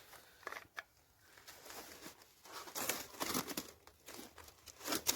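Packaging crinkling and rustling as it is handled, in irregular bursts that get busier and louder about three seconds in.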